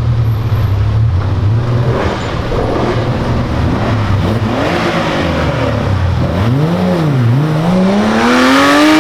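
Sports car engine revving: a low rumble first, then two quick blips of the throttle, and a long steady rise in revs near the end.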